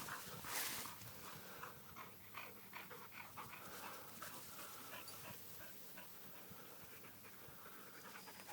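Dog panting, faint, with a short rush of breath-like noise about half a second in.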